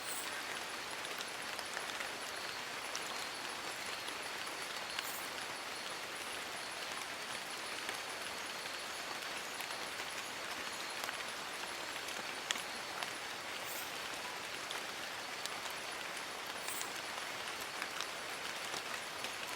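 Steady rain falling on forest leaves, an even hiss with many separate drop ticks. A faint, rapidly pulsing high tone runs underneath.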